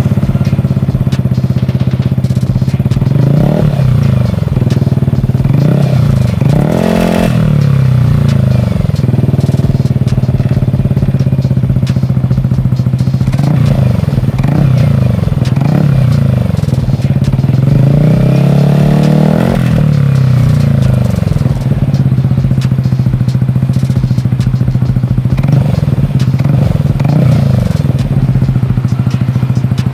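Motorcycle engine through an SC Project aftermarket muffler, idling with the throttle repeatedly blipped. The exhaust note rises and falls with each rev; the sharpest blip is about seven seconds in.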